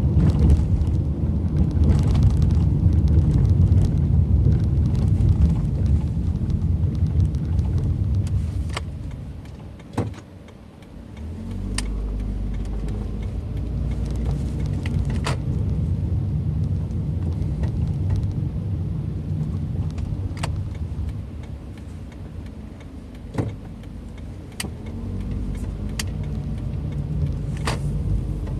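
Car driving, heard from inside the cabin: a steady rumble of engine and tyres on the road. About ten seconds in it quietens briefly, then settles to a lower, steadier hum. A few sharp clicks or knocks come through now and then.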